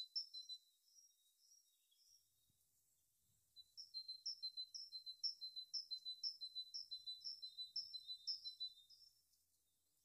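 Small bird chirping in a rapid series of short, high, falling notes, about three a second. The series breaks off about a second in, starts again after a pause of a few seconds and fades out near the end.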